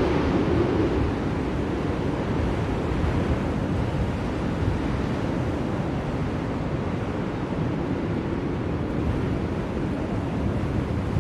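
Blizzard wind blowing as a steady rushing noise, a little stronger in the first second before settling.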